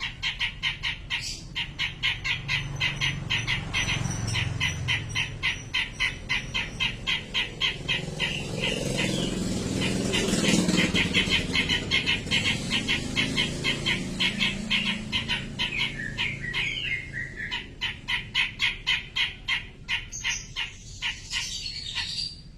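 Cucak jenggot calling: a long run of rapid, evenly repeated short notes, broken by a few gliding whistled phrases near the end. This is a masteran recording used to train caged songbirds.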